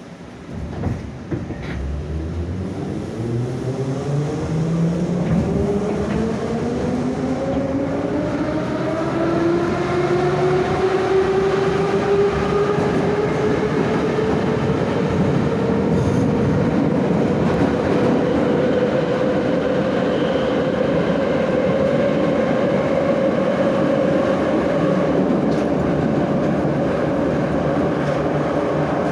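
81-717/714 'Nomernoy' metro train's traction motors and gearing whining as it accelerates in the tunnel. The whine rises steadily in pitch over about ten seconds, then holds at cruising speed over the rumble of wheels on rail.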